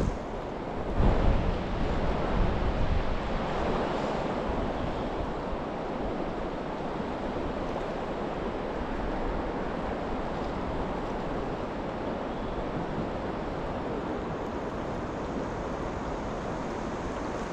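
Steady rushing of river water, with wind buffeting the microphone in the first few seconds.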